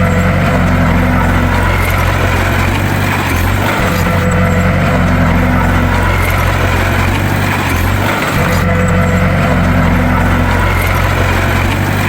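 Bulldozer's diesel engine running steadily, the same small change in its note coming round about every four seconds.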